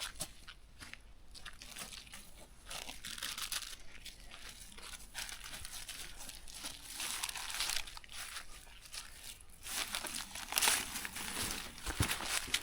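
Plastic crinkling and rustling in irregular bursts as it is handled and crumpled, louder near the end.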